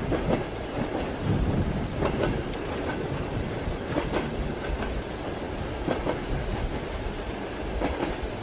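Train wheels clattering over rail joints, a double knock repeating about every two seconds, over the steady rumble of a moving railway carriage and the hiss of rain.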